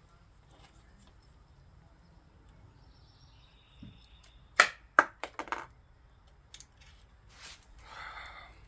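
A quick run of sharp clicks and knocks about halfway through, as the hard parts of a handlebar phone holder are handled and fitted, with a few fainter clicks and a brief rustle after.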